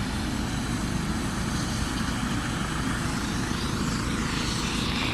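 Landed helicopter running on the ground, a steady engine and rotor noise with a rapid low flutter.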